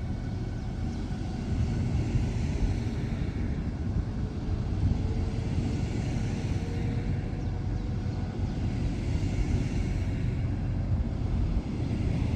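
Train rumbling steadily as it runs past.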